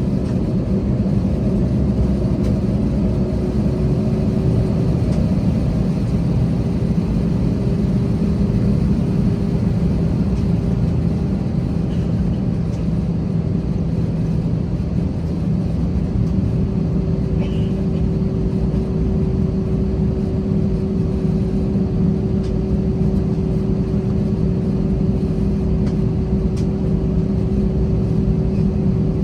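Airbus A320 cabin noise before takeoff: a steady low rumble of the jet engines at idle, with a steady hum over it that rises slightly in pitch in the first few seconds and then holds.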